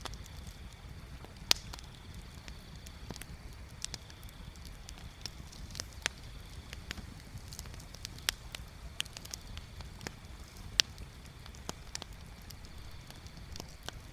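Wood bonfire crackling, with irregular sharp pops and snaps over a steady low rumble. Two pops stand out as the loudest, about a second and a half in and near eleven seconds in.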